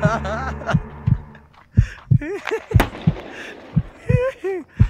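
Heartbeat sound effect: low lub-dub thumps in pairs, about one pair a second, with two short wavering voice-like wails in the middle and near the end.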